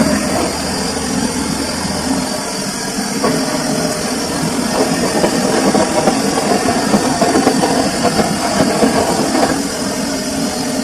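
Samsung washing machine running mid-cycle, a steady mechanical hum and rumble from the drum and motor. A deeper low hum drops away about two seconds in while the rest carries on.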